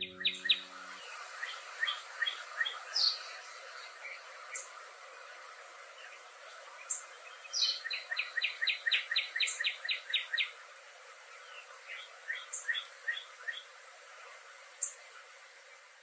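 Songbirds chirping and calling, with a quick run of about a dozen chirps at about four a second just past the middle, over a steady high hiss.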